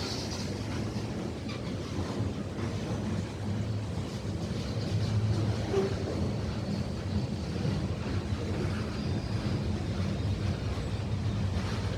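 A train running along the track, a steady rumble with a low hum, with some wind on the microphone.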